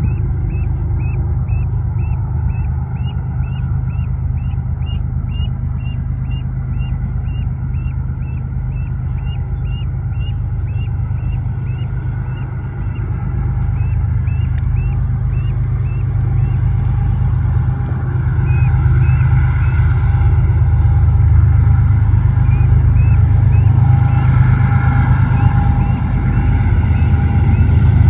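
Diesel locomotives of an approaching freight train, a low engine rumble that grows steadily louder as the train nears. Over it, a bird calls in quick short chirps, about two a second, through the first half, thinning out later.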